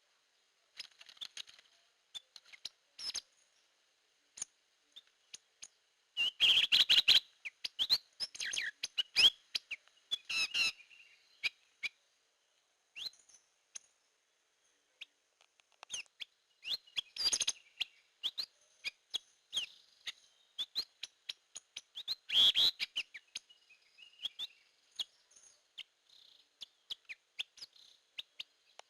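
Drongo song: a varied run of sharp chirps, whistled notes and clicks in irregular phrases with short pauses between them. The loudest bursts come about six, seventeen and twenty-two seconds in.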